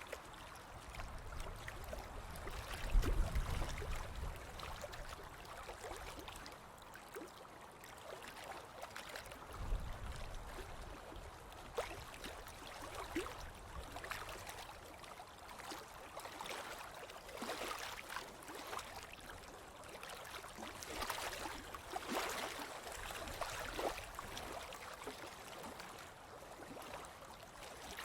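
Ocean waves washing onto a beach: steady surf noise with fine crackling, and a low rumble about three seconds in and again about ten seconds in.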